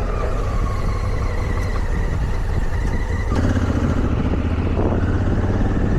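Motorcycle engine running steadily under way, with the engine note changing a little over three seconds in.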